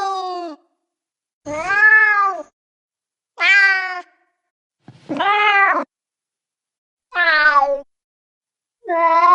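Domestic cats meowing: six separate meows about one and a half seconds apart, each a drawn-out call that rises and then falls in pitch. There is dead silence between the meows.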